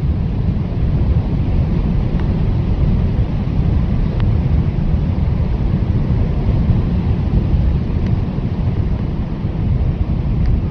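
Blizzard wind blowing steadily, a dense, deep rush heaviest in the low end, with a few faint ticks.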